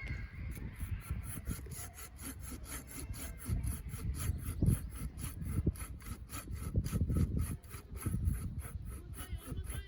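Hand saw cutting through firewood in quick, regular strokes, with a few dull knocks of the wood shifting.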